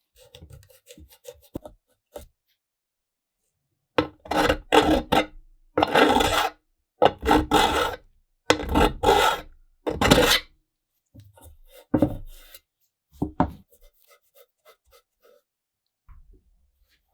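Abrasive hand work on a metal lantern part: a run of about nine loud scraping strokes in the middle, with fainter scrapes and light taps before and after.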